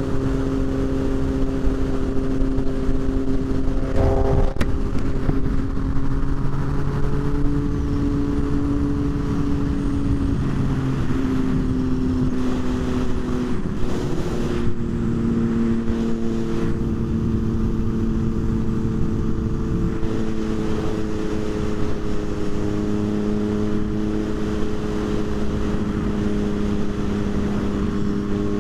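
Motorcycle engine running at a steady cruising speed, with wind rushing over the microphone. The engine note holds steady, easing down and up a little in pitch a few times.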